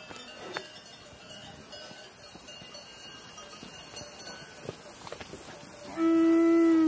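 Faint, scattered ringing of cowbells, then near the end a cow moos once, loud and held, its pitch dropping as it stops.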